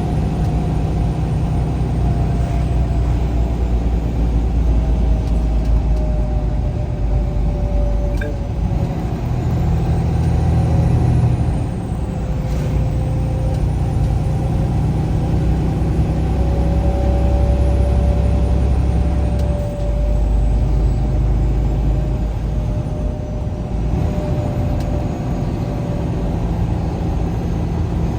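A vehicle's engine and road noise while driving: a steady low rumble with a faint whine that drifts slowly in pitch. The rumble's note changes twice along the way.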